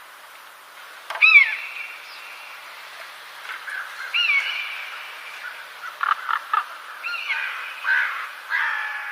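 A bird calling: short pitched calls that rise and then fall, repeated every few seconds, the first one, about a second in, the loudest. A cluster of quick, sharp notes comes around six seconds in.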